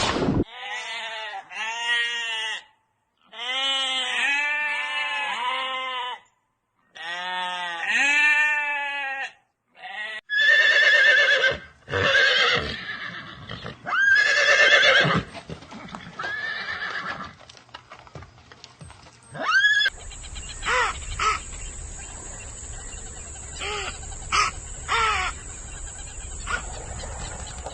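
Pitched animal calls in a series of short clips cut one after another, each clip a different set of calls.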